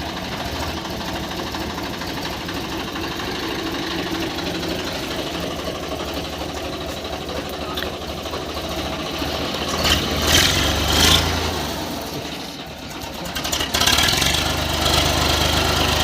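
Swaraj 855 FE tractor's three-cylinder diesel engine running steadily, growing louder briefly about ten seconds in and again from about fourteen seconds on.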